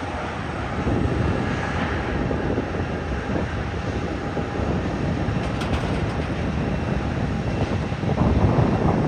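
Airbus A321neo's CFM LEAP-1A jet engines rumbling steadily as the airliner lands, the rumble swelling about eight seconds in.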